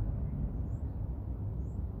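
Steady low rumble of a Challenger 350 business jet's twin turbofan engines, heard from a distance, with two faint high chirps about a second apart.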